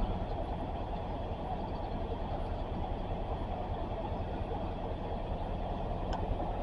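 Amtrak diesel locomotive idling at the station, a steady low rumble.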